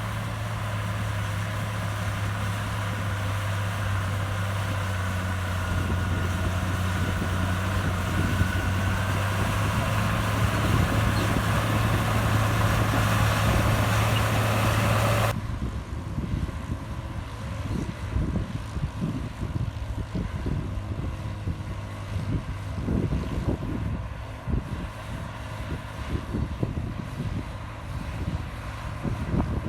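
Heavy diesel earthmoving machine engine running steadily under load, with a faint rising whine. About halfway through the sound cuts abruptly to a quieter, uneven rumble.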